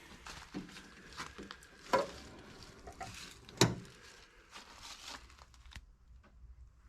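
Rustling handling noises with two sharp clicks or knocks, one about two seconds in and a louder one about three and a half seconds in.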